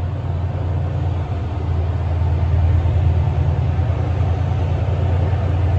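Steady low rumble of a train, a little louder around the middle.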